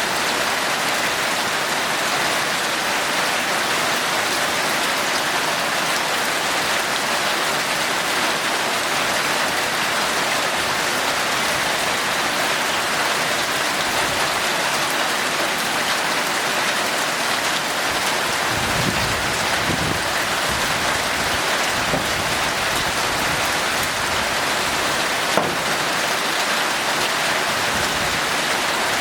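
Heavy rain falling steadily, an even hiss with no letup. A brief low rumble comes about two-thirds of the way through.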